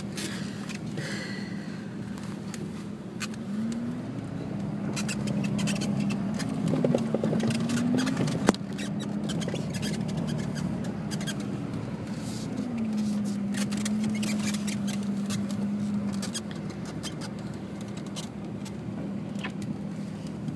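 A vehicle engine running, its pitch rising and falling several times as it speeds up and slows down, with scattered sharp clicks and ticks.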